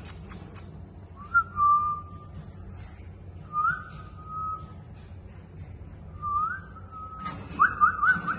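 A parrot whistling: three drawn-out whistles, each sliding up and then holding one note, followed near the end by a quick run of short rising whistles.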